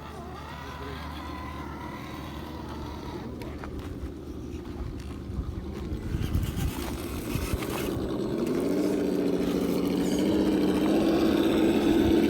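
RC crawler truck's speaker-based engine sound simulator running, growing steadily louder as the truck comes closer, its pitch rising a little near the end. A few scattered clicks and knocks are heard midway.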